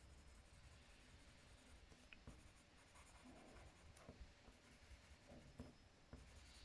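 Faint scratching of a wooden coloured pencil on card, in short soft strokes with a few light ticks.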